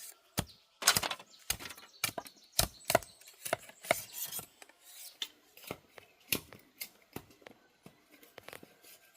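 A string of irregular sharp clicks and snaps, some close together and some a second apart, thinning out after the first few seconds, like something being cut or handled by hand.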